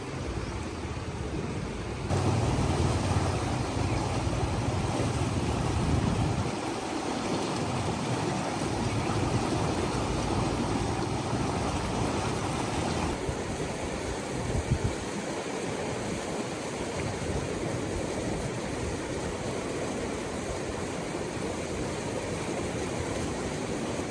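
Steady rushing of flowing water, with abrupt changes in level about two and thirteen seconds in.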